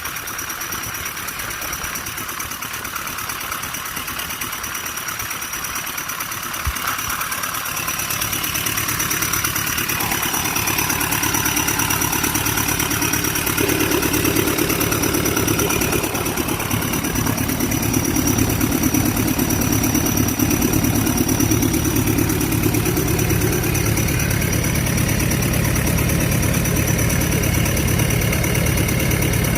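Kobelco SK200-8 excavator's Hino J05E four-cylinder diesel engine running on its test run after a top overhaul, with a steady high whine; the engine grows louder about ten seconds in and stays there.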